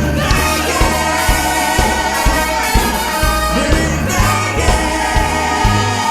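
Live band music with a steady beat and a singing voice.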